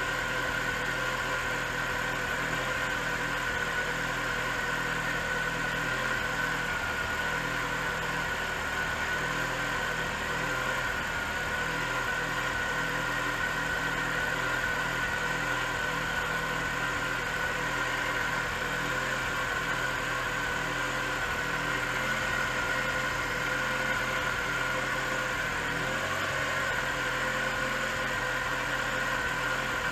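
Freshly rebuilt 2.4-litre long-rod engine of a Mitsubishi Lancer Evolution IX idling steadily, with a steady high whine over the idle: the timing belt noise that has shown up since the rebuild.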